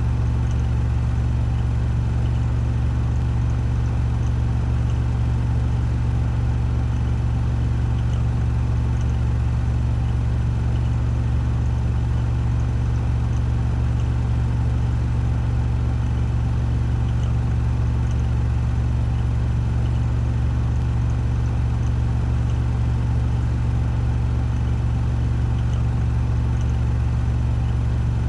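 Washing machine spinning at 1400 rpm in its spin cycle: a steady, unchanging low hum from the drum and motor.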